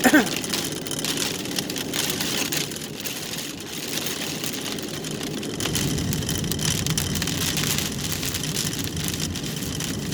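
Pea-size hail and rain ticking on a car's roof and windshield while the car's engine runs. A short, loud falling squeak comes right at the start, and a low rumble from the car grows about halfway through.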